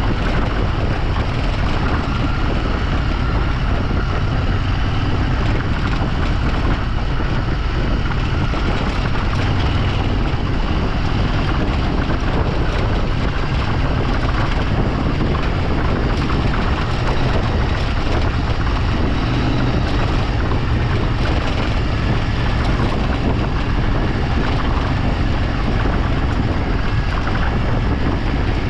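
A vehicle's engine running steadily while driving, with wind buffeting the microphone.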